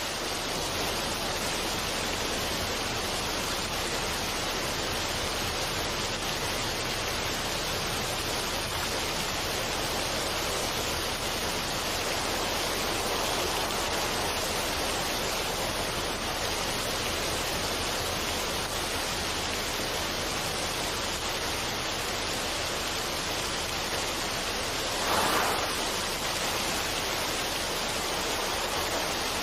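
Steady rushing water with an even, hissing roar, swelling briefly about 25 seconds in.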